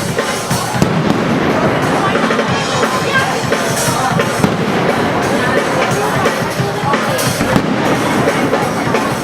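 Fireworks display going off in a dense, unbroken run of bangs and crackles, with music and voices mixed in.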